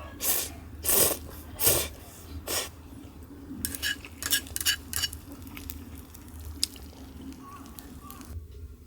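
Camp cookware being handled: four short scraping strokes, then a quick run of light clinks and one last clink.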